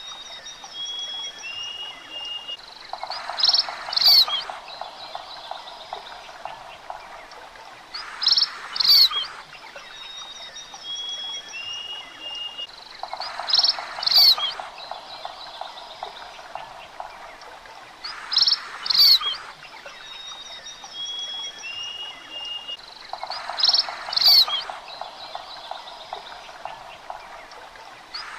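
Looped forest ambience: a bird's short chirping calls repeating about every five seconds, each time joined by a pulsed, rattling croak like a frog's and thin steady insect trills, over a faint hiss.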